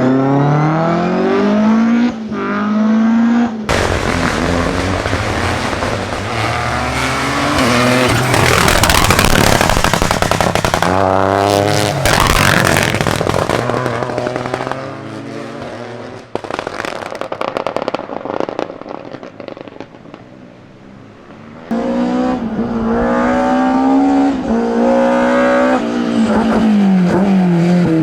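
Rally cars at full throttle on a stage: an engine revving up through the gears, then a long loud stretch of engine and rushing noise that fades away, and about three-quarters of the way through another car arrives suddenly, its engine rising and falling as it works through the gears.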